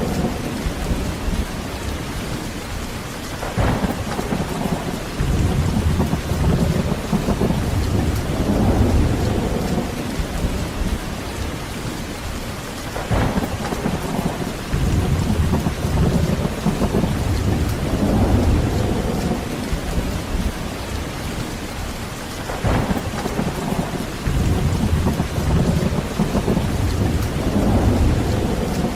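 Heavy rain falling steadily with a thunderstorm: low rolling rumbles of thunder swell and fade several times, and a sharp crack of thunder comes about every nine to ten seconds.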